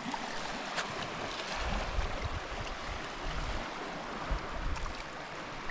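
Small waves of Lake Superior washing steadily against a rocky shoreline. Wind buffets the microphone in low gusts, once about a second and a half in and again later.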